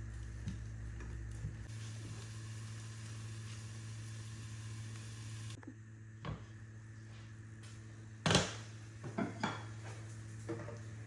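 Kitchen work sounds: a steady hiss that stops suddenly about five and a half seconds in, then a few clinks and knocks of pots or dishes, the loudest about eight seconds in, over a low steady hum.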